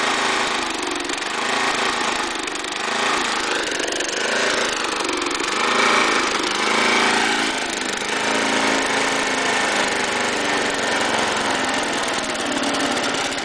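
Snapper mower's Briggs & Stratton engine running warm, its speed sagging and picking back up, with the pitch wavering and the level swelling about halfway through. It is the symptom of an engine that nearly shuts off and then starts back up again, a fault the owner cannot explain.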